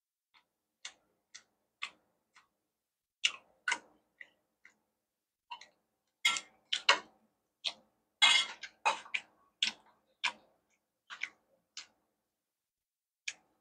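Close-miked mouth sounds of someone eating pad thai and fried rice: sticky, wet chewing clicks and lip smacks, irregular and a few a second, with silent gaps between them, busiest in the middle.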